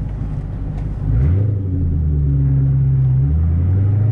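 Car engine, tagged as a Ford Mustang, under low road rumble: about a second in it revs up and then holds a steady pitch, and about three seconds in the pitch drops to a lower steady note.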